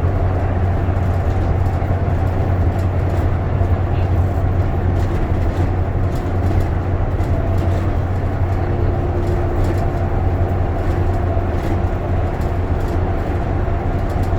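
Inside a moving bus: a steady low drone from the engine and road, with a steady higher whine above it.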